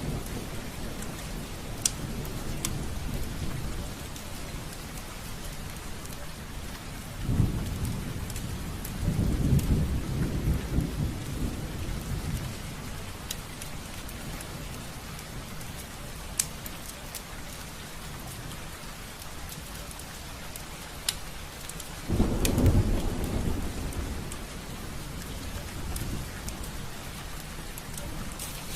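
Steady rain falling on window glass, with single drops ticking now and then. Thunder rumbles over it: a sudden roll about a quarter of the way in that runs into a longer one, and another sudden roll about three quarters of the way through.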